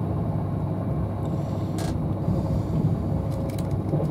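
Steady low rumble inside the passenger cabin of an Avanti West Coast Class 390 Pendolino electric train running at speed, with a brief click about two seconds in.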